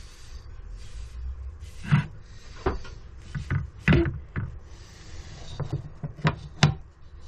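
Irregular knocks and clacks, about a dozen of them spaced unevenly and loudest around the middle and near the end, as things are handled and set down on a wooden workbench.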